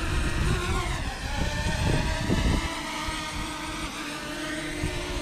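DJI Mavic Mini quadcopter's propellers whining in several steady tones that dip in pitch about a second in, with strong wind buffeting the microphone that drops away a little before halfway.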